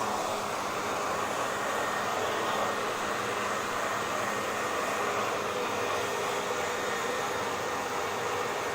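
Handheld hair dryer running steadily, with an even rushing hiss of air and a faint motor hum.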